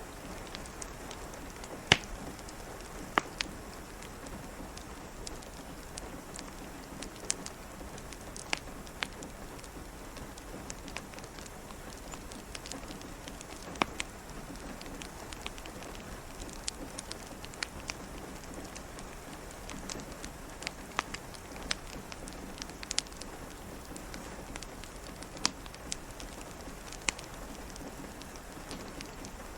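Steady rain hiss with a wood fire crackling over it: irregular sharp pops and snaps, the loudest about two seconds in. No thunder rumble is heard.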